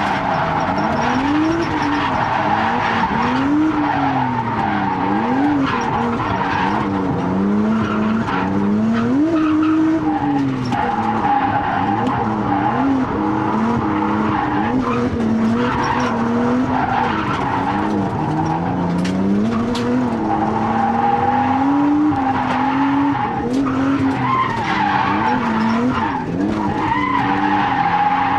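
Nissan R32 Skyline's RB20DET turbocharged straight-six revving up and down again and again under hard drifting, with tyres squealing in a steady high tone. The owner describes the engine as down to single-digit compression.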